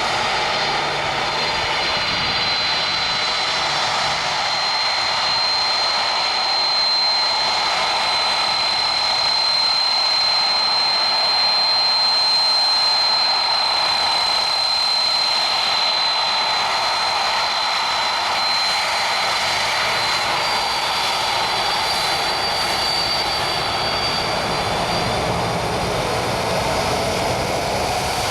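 Boeing 767-300ER airliner's twin jet engines during its landing: a continuous engine noise with a steady high whine, growing louder toward the middle and then slowly easing.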